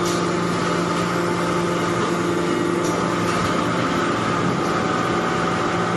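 Hydraulic metal-chip baler running: a steady machine hum with several held tones and a faint tick now and then.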